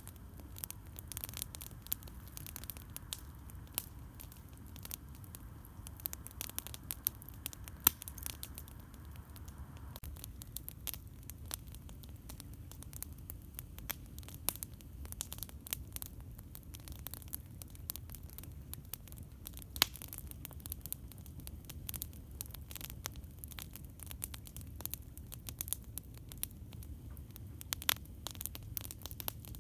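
Campfire crackling: irregular sharp pops and snaps over a steady low rumble. A faint hiss underneath stops about ten seconds in.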